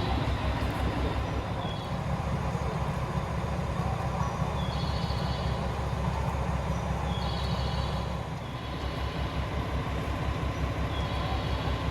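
Komatsu diesel engine of a KiHa 40-series railcar idling with a steady low throb. A short high chirping sound recurs every few seconds over it.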